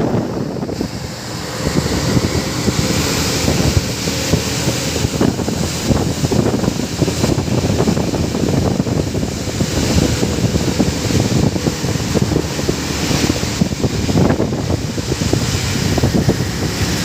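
Wind buffeting the microphone over the noise of road traffic, a steady rough rumble with no clear single event.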